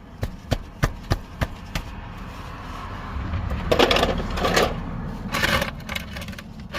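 Socket ratchet on the 15 mm oil drain plug clicking, about three clicks a second, followed by louder scraping and rattling of metal tools for a couple of seconds.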